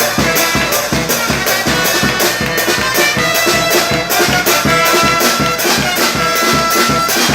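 Txaranga brass-and-percussion band playing a lively tune over a quick, steady drum beat, the brass holding long notes in the second half.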